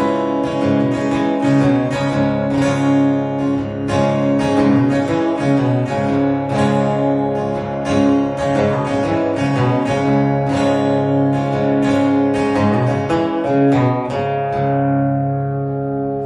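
Acoustic guitar strummed in steady repeated chords with no singing; near the end the strumming stops and a last chord is left ringing.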